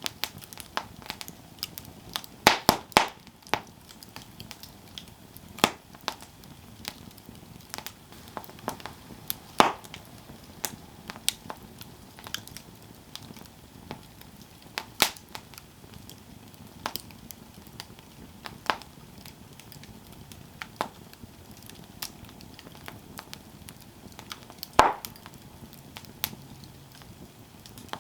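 Campfire burning, wood crackling and popping at irregular intervals over a soft steady hiss, with a quick cluster of loud pops about three seconds in and sharp single pops now and then.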